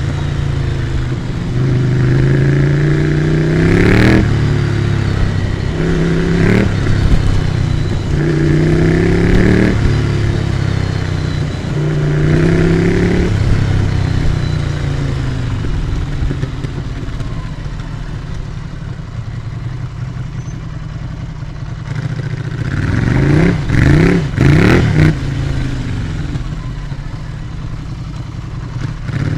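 2016 Ducati Scrambler Icon's 803 cc air-cooled L-twin through an HP Corse GP07 exhaust with the baffle in, under way: it pulls up through the revs and drops back several times as it shifts gears, runs more gently for several seconds, then gets a few quick, sharp blips of the throttle near the end.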